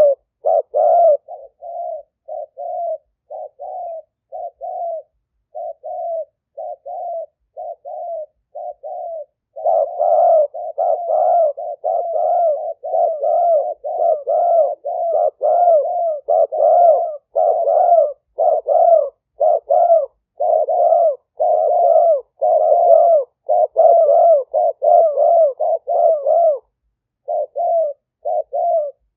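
Spotted dove cooing: repeated short coo phrases, spaced and softer at first, then coming thick and louder from about ten seconds in.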